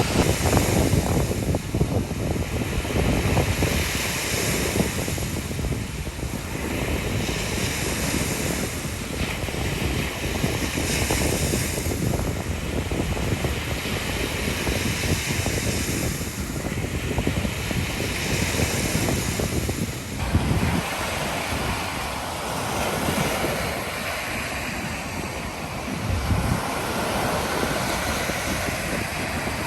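Ocean surf washing onto the beach, a hiss that swells and fades every few seconds, with wind buffeting the microphone as a low rumble.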